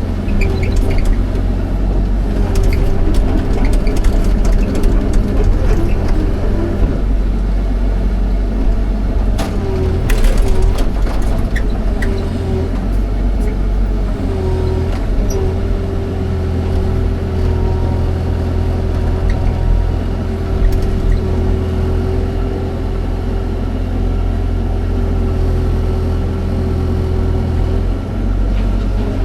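Excavator's diesel engine running steadily under work, with a held whining tone over the low engine drone and a few short knocks about ten seconds in.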